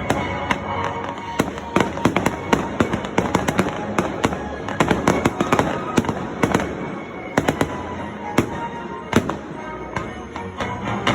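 Fireworks going off: a rapid, irregular string of sharp bangs and crackles, several a second, with no let-up.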